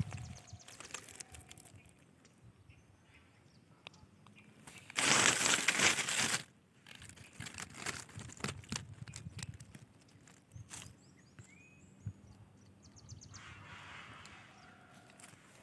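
Rustling and crunching on dry ground and vegetation, with a loud rustling burst lasting about a second and a half some five seconds in, and a few faint bird chirps later on.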